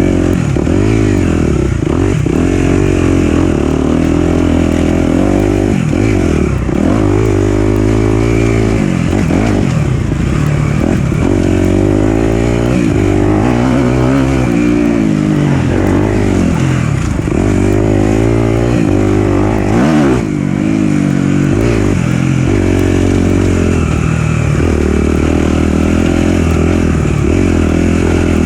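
Four-stroke dirt bike engine ridden on a trail, the revs climbing and dropping over and over as the throttle is worked, with a brief let-off about two-thirds of the way in.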